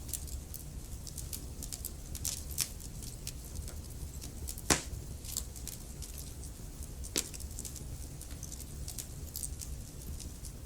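Wood fire burning in a fireplace: a steady low rumble of flame with irregular sharp crackles and pops, the loudest pop about halfway through.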